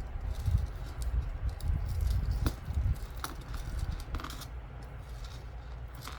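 Jewelry being handled: scattered light clicks and clinks of necklace chains and beads, over a low rumble of handling noise.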